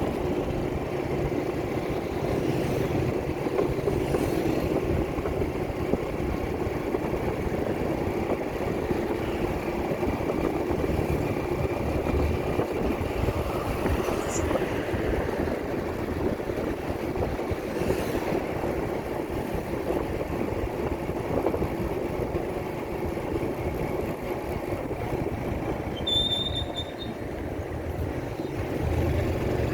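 Motorcycle engine running steadily on the move, with wind rumbling on the microphone. A brief high-pitched tone sounds near the end.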